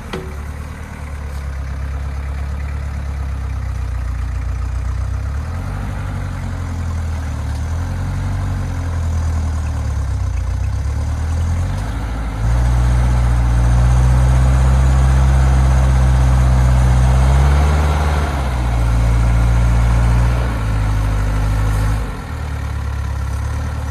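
Off-road SUV engine working at low revs under load, its note shifting in steps, rising and louder about halfway through and held for several seconds before easing off toward the end.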